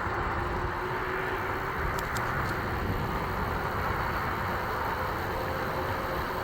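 Steady rushing wind and road noise from riding an e-bike, with a faint steady whine underneath and a couple of light clicks about two seconds in.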